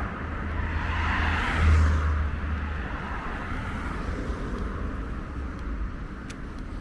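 A car passing by on the street, its road noise swelling to a peak about two seconds in and then fading away. Wind rumbles on the microphone in the first half.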